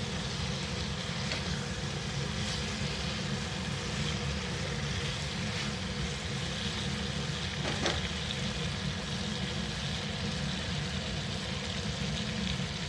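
Potato and cauliflower pieces sizzling in oil and masala in a pan as they are stirred with a silicone spatula, over a steady low hum, with an occasional light tap of the spatula against the pan.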